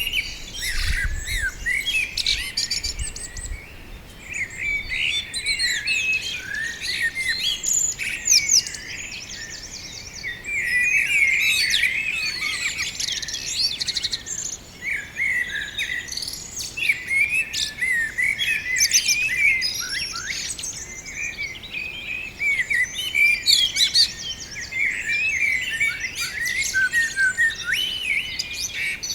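Several songbirds chirping and singing at once, a dense run of quick, overlapping high chirps and trills.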